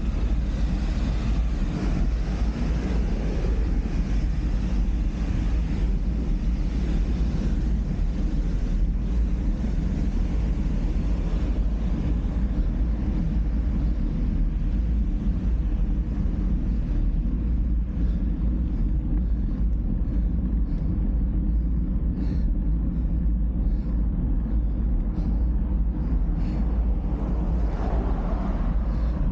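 Steady low rumble of wind buffeting the microphone and road noise from a moving bike, unbroken throughout, with a few faint ticks in the second half.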